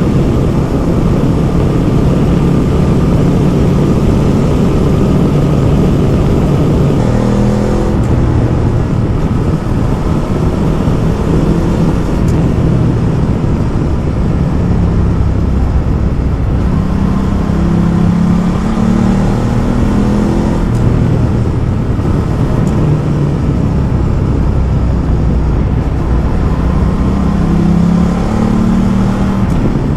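Ducati Multistrada motorcycle engine running under way, with a steady rush of wind. The engine pitch rises and falls several times with throttle and speed.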